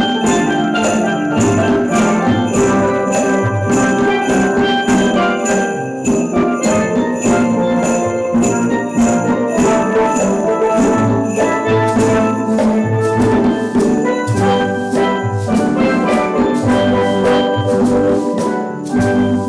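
Steel drum band playing a lively piece: ringing pitched pan notes over a steady beat, with bass notes and drums.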